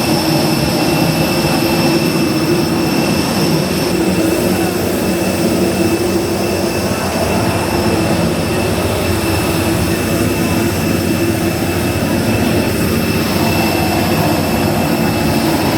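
Airbus A320neo jet engines and airflow during landing: a loud, steady rushing noise with several steady whining tones.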